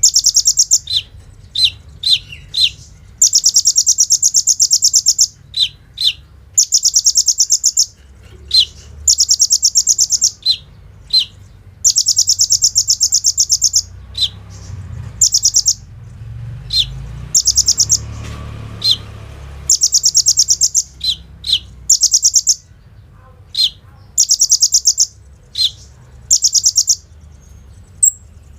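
Kolibri ninja sunbird singing. Rapid, very high rattling trills, each lasting about half a second to two seconds and run off like machine-gun bursts in the 'bren' and 'AK-47' style, alternate with single short sharp chip notes. A low hum runs underneath.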